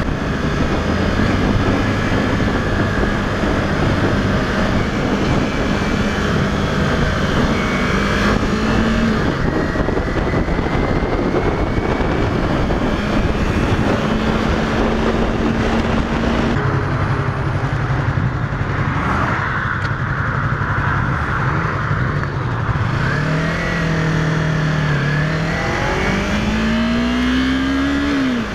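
Engine of a 2015 Yamaha YZF-R3, a 321 cc parallel twin, running under way against a steady rush of wind noise. In the last few seconds the engine note climbs as the bike accelerates, drops briefly at a gear change, then climbs again.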